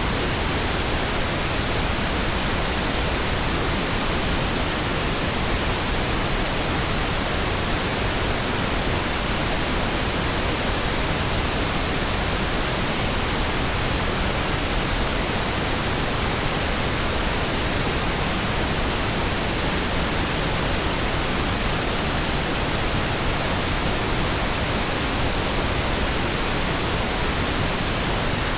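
Synthetic pink noise: a steady, even hiss spread across all pitches, with no changes or breaks.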